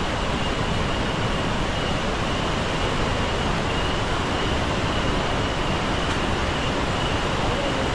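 Iguazú Falls waterfall roaring steadily, a dense unbroken rush of falling water.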